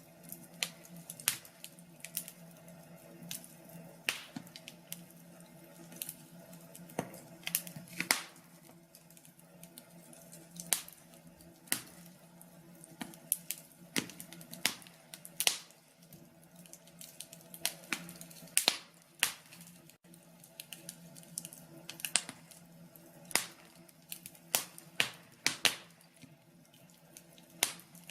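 Wood fire crackling in a fireplace: irregular sharp pops and snaps, several a second, over a low steady hiss and hum.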